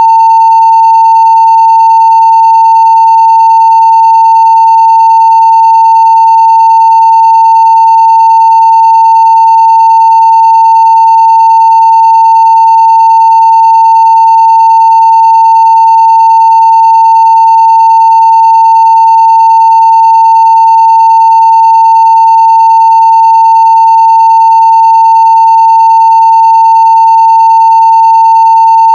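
Continuous 900 Hz sine-wave test tone at full-scale level (0 dB), one steady unbroken pitch.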